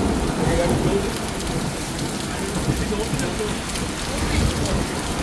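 Heavy rain pouring down steadily in a thunderstorm, an even hiss of a downpour hitting the street and nearby surfaces.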